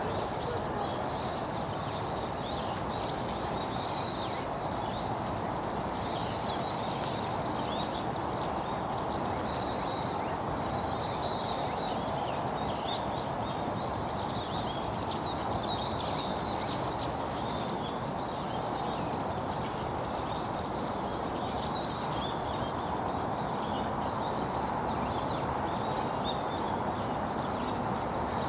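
Small birds chirping and calling again and again, short high twittering notes scattered throughout, over a steady outdoor background noise.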